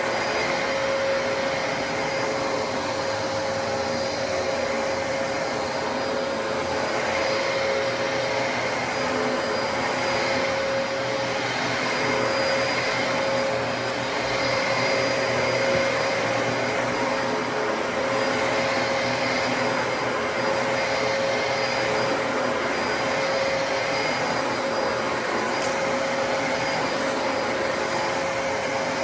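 Dyson DC33 upright vacuum cleaner running steadily: rushing airflow with a constant motor whine.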